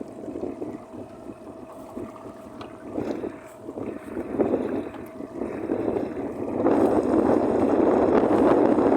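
Strong wind blowing across the microphone on a small boat on choppy water, gusting and growing clearly louder about two-thirds of the way in.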